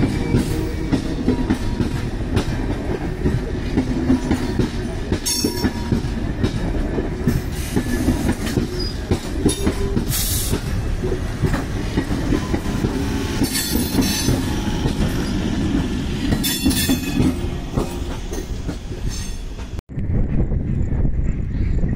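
MEMU electric local train passing close by at speed: a steady, heavy rumble of wheels on rail, with short bursts of high-pitched screech every few seconds. Near the end the sound cuts off abruptly and gives way to a different, duller outdoor rumble.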